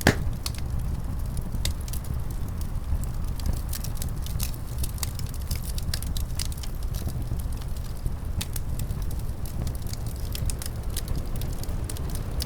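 Wood fire crackling in a fireplace: scattered sharp snaps and pops, with one louder pop at the very start, over a steady low rumble.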